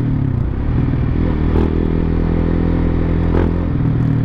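Big-bike motorcycle engine running under way, its pitch falling at the start as it slows, then holding steady, with a couple of brief clicks. It is on fresh Motul 300V oil, which the rider finds makes it run quieter and smoother.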